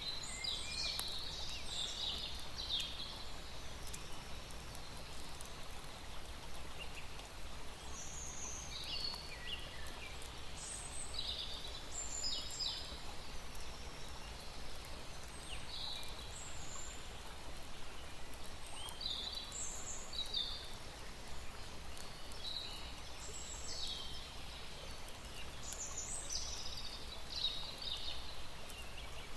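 Small birds chirping in short, high calls, scattered every second or two, over a steady low background hum.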